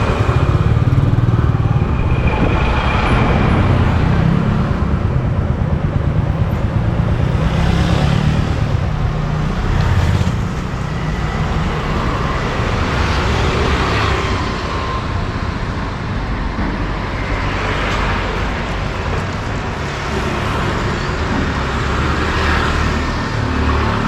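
A motorcycle engine running steadily while riding in road traffic, with continuous road and traffic noise. It eases off slightly about ten seconds in.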